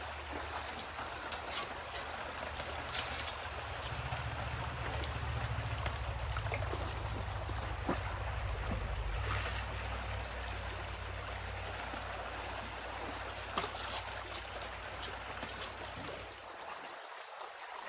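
River water rushing and trickling through a gold sluice box, a steady wash with a few faint clicks of gravel. A low rumble under it cuts off near the end.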